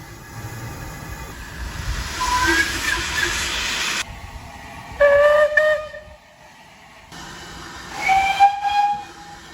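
Steam locomotive whistles: three short blasts, each at a different pitch, with abrupt cuts between them. A loud hiss of steam runs under the first blast.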